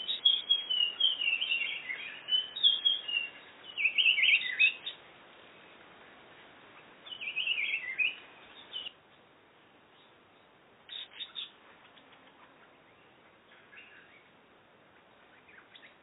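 Birds chirping in bursts of quick, high twittering notes, busiest in the first few seconds, with another burst about seven seconds in and a short one about eleven seconds in, then only faint chirps.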